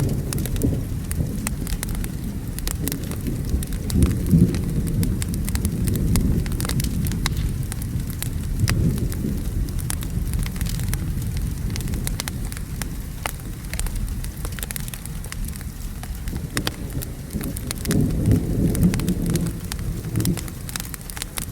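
Rain with thunder rolling in the distance, the low rumble swelling three or four times, over the scattered pops and crackles of a wood fire.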